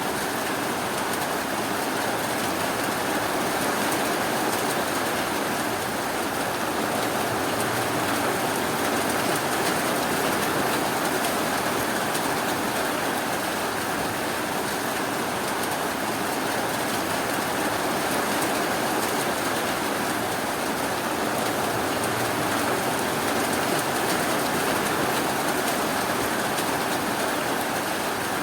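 Steady rainfall, an even continuous hiss with no thunder or sudden sounds.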